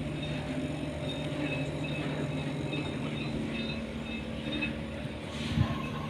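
An engine running steadily with an even drone, and a single thump about five and a half seconds in.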